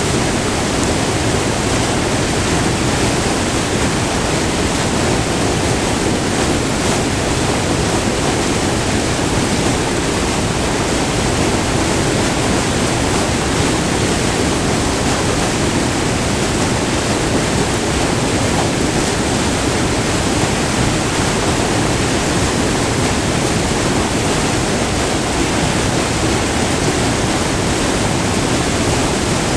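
Water cascading over a short, multi-tiered river waterfall, heard close up: a loud, steady rush of white water.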